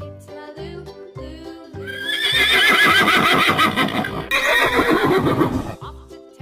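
A horse whinnies once, loud and quavering, starting about two seconds in and lasting over three seconds, its pitch sliding down toward the end. Background music with a steady beat plays throughout.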